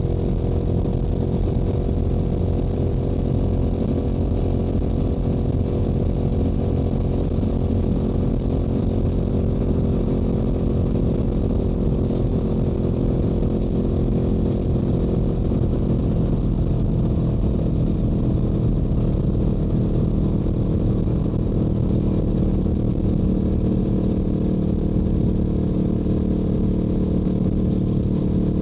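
Stock Yamaha YZF-R7's 689 cc parallel-twin engine and exhaust running steadily at highway cruising speed, with a low wind rumble underneath.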